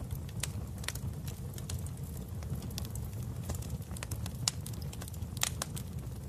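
Wood fire crackling in a fireplace: irregular sharp pops and snaps over a steady low rumble, with two louder snaps in the second half.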